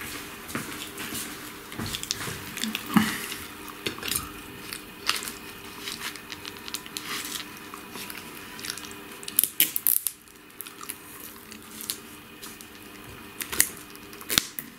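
A person chewing and biting food close up, with irregular crunches and sharp clicks.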